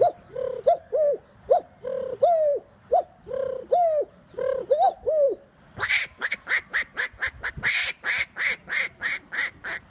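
A man imitating bird calls with his voice: about two short, low, arching calls a second for the first five seconds, cooing like a dove, then a faster run of higher, sharper calls, about three a second.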